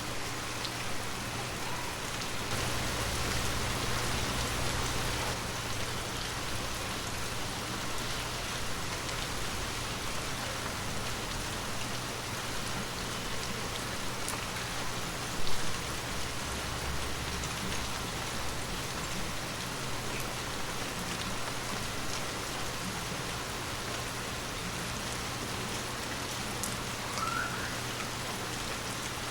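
Heavy rain falling steadily, spattering on surfaces, with one brief louder knock about halfway through.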